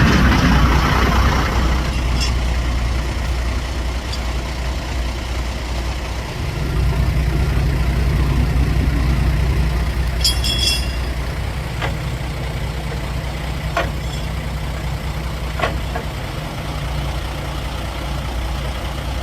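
Heavy truck engine running steadily, louder from about six seconds in. A brief high chirping comes about ten seconds in.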